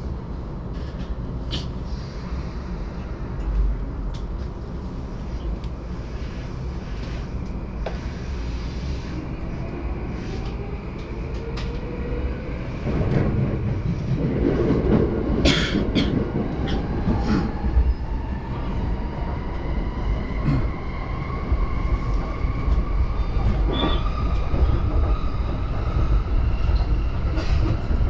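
Yamanote Line commuter train pulling away and gathering speed, heard from inside the car. The electric traction motors whine steadily higher in pitch over a low running rumble, with the wheels clicking over rail joints. The noise grows louder about halfway through.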